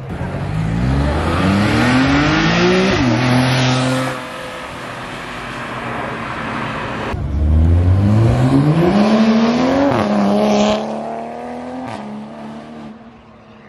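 Two performance cars in turn accelerating hard past, loud: each engine's pitch climbs steeply for about two and a half seconds, drops sharply on an upshift, then pulls on as the car goes by. The second comes about seven seconds after the first.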